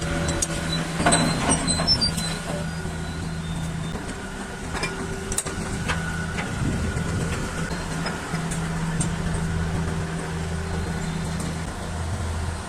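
Heavy diesel machinery engine running steadily, with a few sharp metal clanks and knocks in the first couple of seconds and scattered clicks after.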